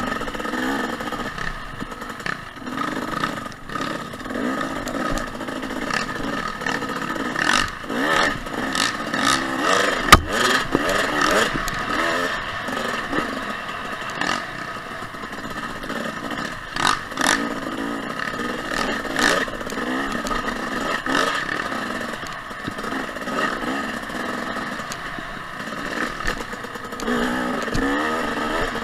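Dirt bike engine, a 2014 Husqvarna TC 250 two-stroke, revving up and down through the throttle on a trail ride, with clatter and knocks from the bike over rough ground and one sharp knock about ten seconds in.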